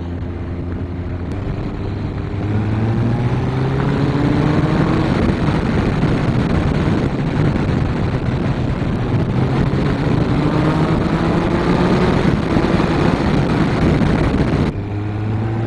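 Honda CBF1000's inline-four engine pulling up through the revs under acceleration, its pitch climbing in long sweeps, with a sudden drop near the end and then climbing again, as at a gear change. Heavy wind rush on the microphone runs under it.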